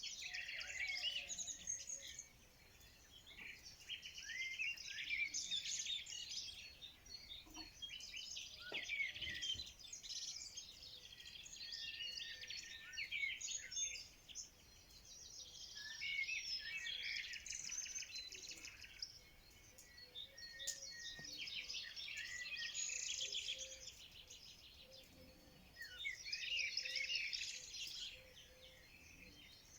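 Several songbirds singing and chirping together, rapid twittering phrases coming in bouts of a few seconds with short lulls between them.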